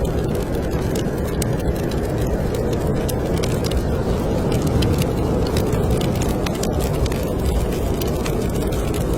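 Wood fire crackling in a fireplace, frequent small sharp pops and ticks, over a steady low rumble of snowstorm wind.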